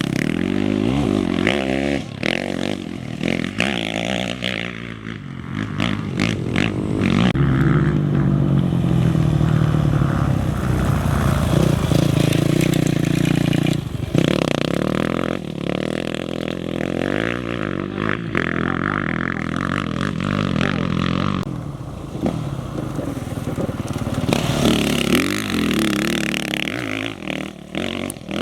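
Off-road race motorcycle engines revving hard and passing, pitch rising and falling over several swells, loudest through the middle.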